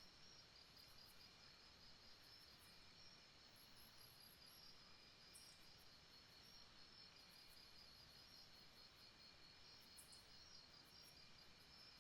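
Faint rainforest night ambience: insects chirping in rapid, even pulses over a soft steady hiss, with a few short high clicks.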